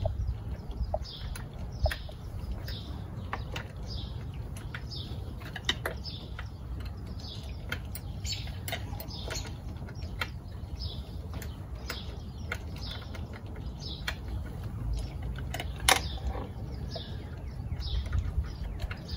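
A small bird chirping over and over, about two short high chirps a second, with scattered clicks and taps of metal parts as hands work on a small Mercury outboard motor; one sharper click near the end.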